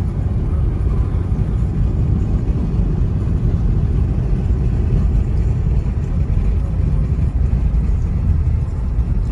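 Car driving along the road: a steady, loud low rumble of road and engine noise.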